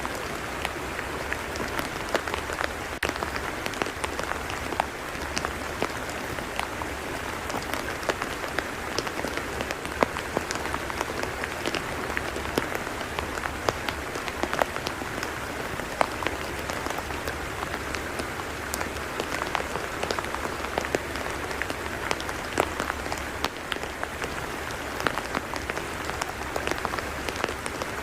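Steady rain falling on a tidal mudflat: an even hiss with many scattered sharp drop ticks.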